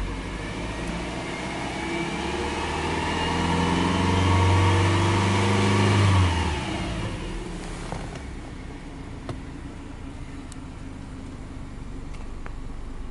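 Subaru Legacy Outback's EJ25 2.5-litre flat-four engine, heard from inside the cabin, revved in park. The revs climb steadily for a few seconds to about 3,000 rpm. About six and a half seconds in the throttle is released and the engine falls back to a steady idle.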